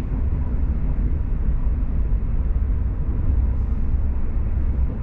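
Passenger train running, heard from inside the carriage: a steady low rumble with no breaks or sudden sounds.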